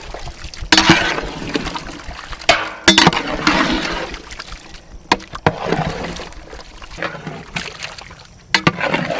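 Chicken pieces being stirred into thick wet masala in a large cooking pot: irregular wet sloshing and scraping, with a few sharp knocks of the ladle against the pot.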